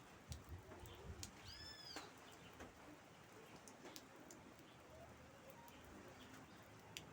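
Faint steady rain with scattered sharp drip ticks. About one and a half seconds in, a single short, high animal call rises and falls.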